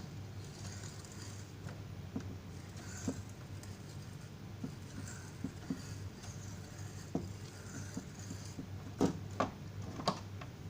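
Scattered light clicks and taps of hands working on an electric stove's heater element and its fittings, with three sharper knocks about nine to ten seconds in, over a steady low hum.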